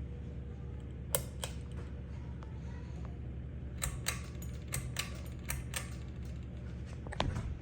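Harbor Breeze Grace Bay ceiling fan running with a steady low hum, overlaid by scattered sharp clicks: two about a second in, a quick cluster between about four and six seconds, and one more near the end.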